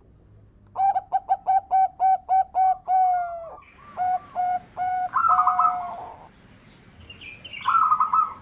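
Zebra dove (perkutut) singing: a fast run of about a dozen short, clipped coos at roughly four a second, then slower coos and two brief rolling trills, one about midway and one near the end.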